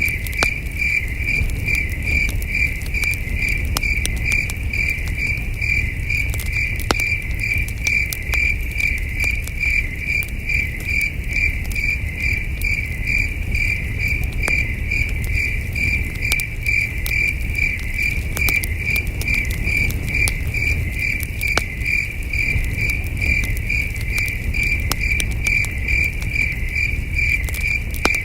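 Crickets chirping in a steady, even pulse of about three chirps a second. Under them a campfire crackles with scattered sharp pops over a low rumble.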